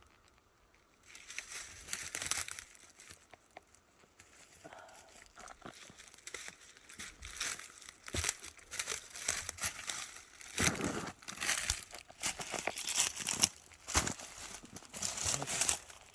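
Dry bark, twigs and leaf litter crunching and crackling in irregular bursts, starting about a second in and growing busier and louder in the second half.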